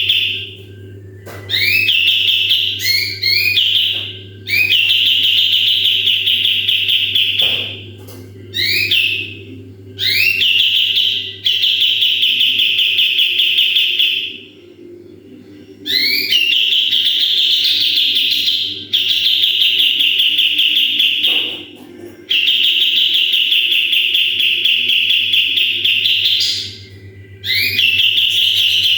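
Kapas tembak bulbul singing in its rapid-fire 'tembakan' style: long, dense, high trilled phrases, each opening with a few quick rising notes. The phrases last about two to five seconds each, with short pauses between them, over a faint steady low hum.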